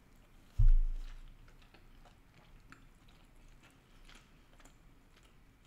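A dull, low thump about half a second in, then soft chewing with small scattered clicks as a mouthful of grilled pork and rice is eaten.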